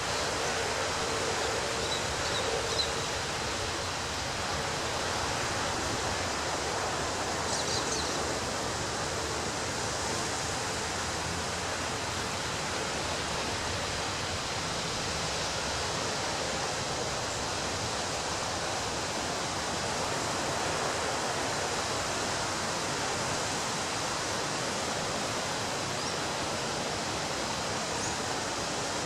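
Ocean surf on a beach, heard as a steady, even rush of water noise without distinct separate breaks.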